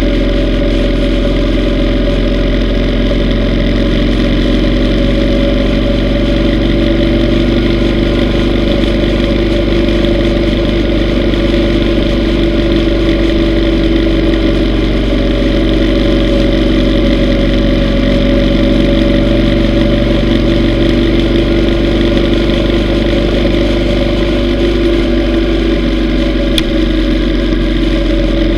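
Yamaha V Star 950's air-cooled V-twin engine running at a steady speed, its pitch holding nearly constant, with a single faint click near the end.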